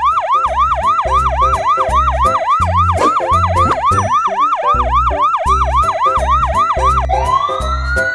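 Fast electronic siren-like warble, about three sweeps a second, over children's background music with a steady beat. About seven seconds in it gives way to a long rising whistle-like glide.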